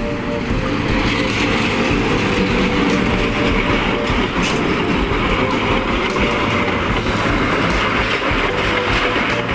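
Siliwangi passenger train running slowly along the track, wheels rumbling steadily with a clickety-clack over the rail joints.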